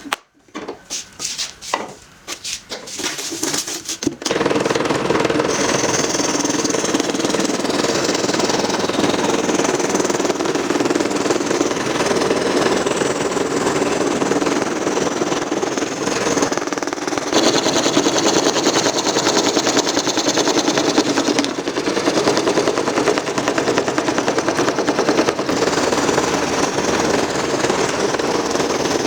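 A handheld power tool working on the job: a few short separate bursts, then from about four seconds in it runs continuously against the material with a dense, fast rattling buzz.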